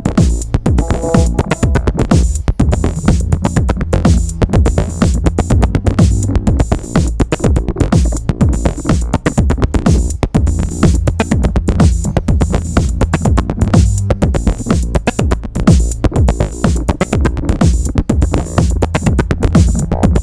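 Eurorack modular synthesizer jam in an acid style: a sequenced oscillator bassline through a lowpass filter, with dense, fast drum-machine-like percussion and granular sampled textures.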